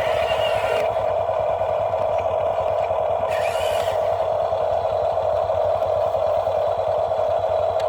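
Small electric motor and gear train of an RC construction model running with a steady whine, with two short bursts of hiss, one at the start and one about three seconds in.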